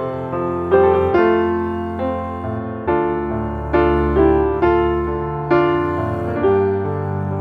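Slow, gentle piano music: single notes and chords struck about once a second over sustained low bass notes.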